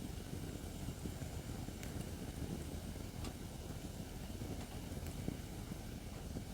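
Acacia firewood burning in a fire pit: a steady low rush of flame with a few sharp crackles and pops.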